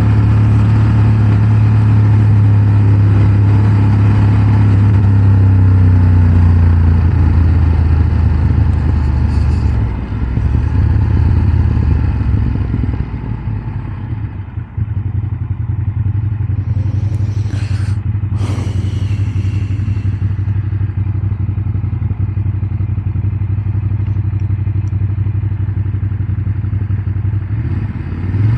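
Ducati Monster 1200's V-twin engine running steadily under way, easing off and quieter for a few seconds around the middle, then picking up again and revving higher near the end.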